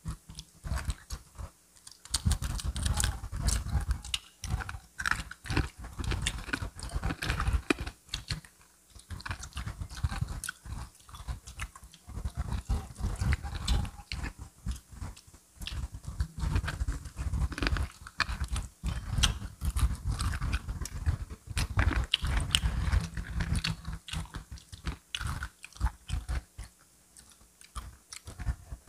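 Biting and chewing crispy fried chicken: irregular crunches and crackles of the breading over heavy, wet chewing, with a few short lulls between bites.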